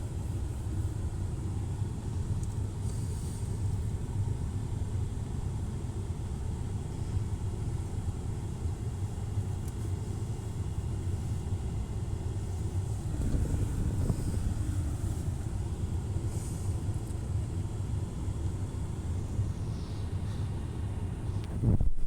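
Steady low rumble heard from inside a car going through an automatic car wash, with a brief louder surge at the very end.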